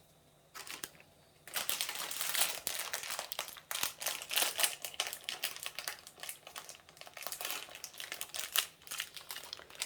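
Crinkling and rustling of a plastic packet of parmesan cheese being opened and handled, an irregular crackle that starts about a second and a half in.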